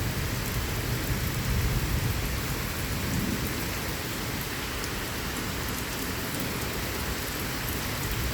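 Heavy rain falling steadily in a thunderstorm, with a low rumble of thunder during the first few seconds that then dies down.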